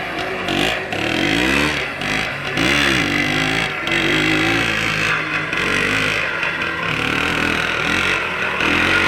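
Homemade motorcycle-snowmobile's IZh Planeta Sport single-cylinder two-stroke engine running under way, its pitch rising and falling several times as the throttle is opened and eased off. A steady hiss runs over the engine sound throughout.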